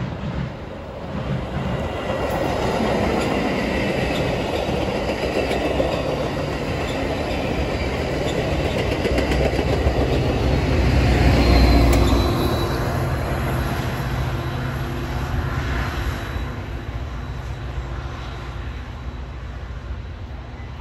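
Metra commuter train of bilevel cars passing close by, cab car first and diesel locomotive pushing at the rear: the rumble and clatter of wheels on rail build to their loudest a little past halfway, then a steady low engine hum fades as the locomotive pulls away.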